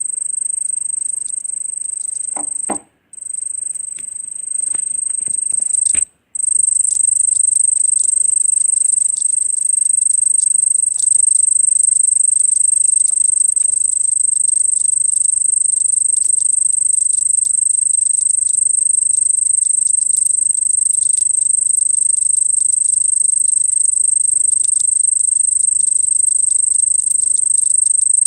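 Cricket trilling: one steady, high-pitched, continuous trill that breaks off briefly twice in the first six seconds, with a few soft knocks around the first break.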